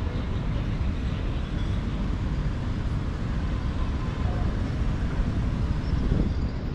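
City street traffic: a steady wash of passing vehicles.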